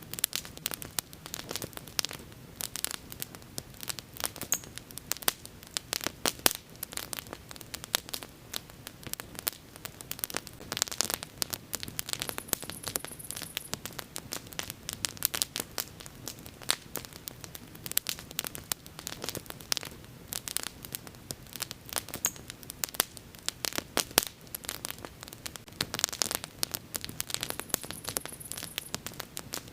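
Wood bonfire burning, crackling with frequent sharp pops, several a second, over a steady soft hiss of flame.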